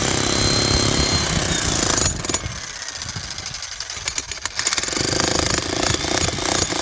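A loud machine running with a fast chatter, easing off for a couple of seconds in the middle before picking up again.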